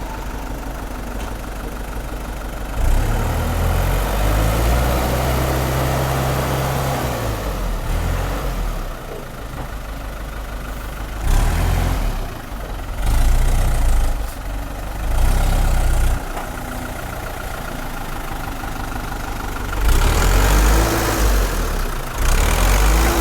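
Truck engine idling, then revving up hard several times: a long rev about three seconds in, a few shorter ones in the middle, and another near the end.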